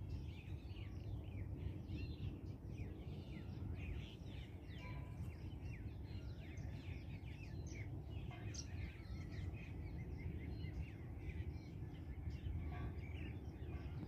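Birds chirping: a busy, continuous mix of many short, quick falling calls, over a steady low background rumble.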